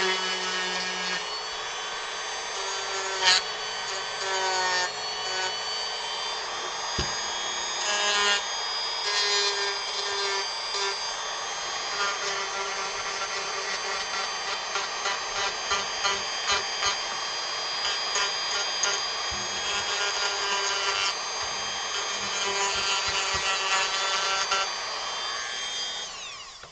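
Dremel rotary tool running and carving wood: a steady high motor whine with the rasp of the bit cutting, winding down near the end.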